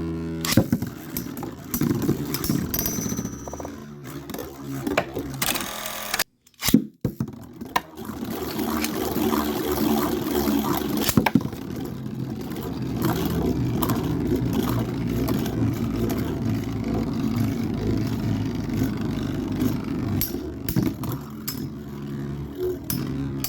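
Metal-wheel Beyblade spinning tops whirring and grinding in a plastic stadium, with many sharp clicks as they knock into each other and the stadium walls.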